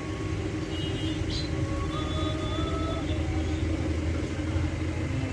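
A steady low rumble, with a short bird chirp about a second in.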